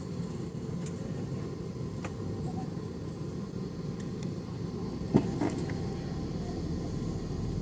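Steady low cabin rumble inside a Boeing 717 on the ground, its engines running, with a few faint clicks and one short knock about five seconds in.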